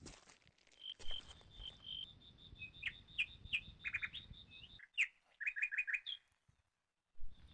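Wild birds singing: a fast, high run of repeated notes with several short chirps sliding downward, then a quick group of four notes. The sound drops out for about half a second near the end.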